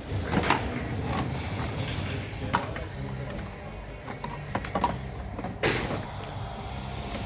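A few scattered knocks and clicks of toy pots and kitchenware being handled, over a steady low hum.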